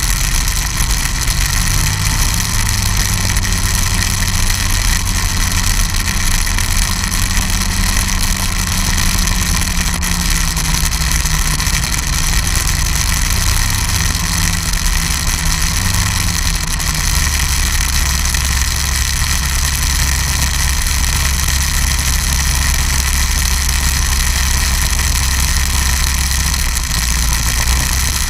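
Snowmobile engine running steadily; its low drone shifts pitch a few times and settles lower a little past halfway.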